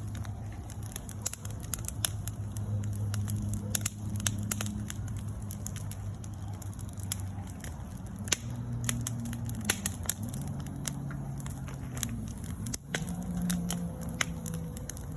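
Campfire crackling, with sharp pops and snaps at irregular intervals over a low steady hum that shifts pitch a few times.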